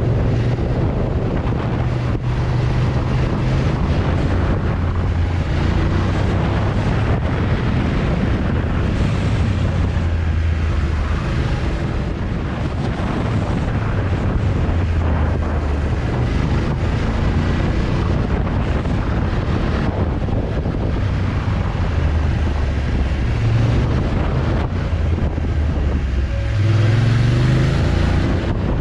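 Motorcycle engine running under way, with heavy wind buffeting on the microphone. The engine note shifts up and down with the road, then climbs as the bike accelerates near the end.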